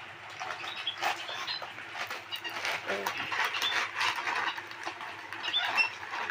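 Small pet parrots chirping and chattering: many short, high chirps scattered throughout, among scratchy clicks.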